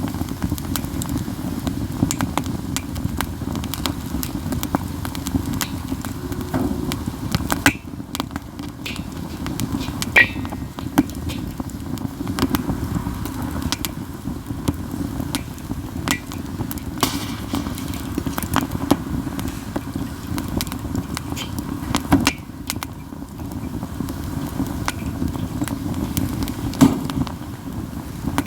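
Katsura wood burning in a campfire: steady crackling over a low rumble of flame, with several sharp, loud pops, the loudest about ten seconds in and again in the last few seconds.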